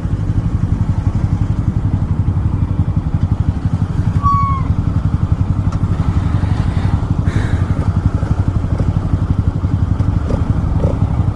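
Honda CG Titan 160 motorcycle's single-cylinder four-stroke engine running steadily with an even, rapid pulsing. About four seconds in there is a brief high-pitched tone.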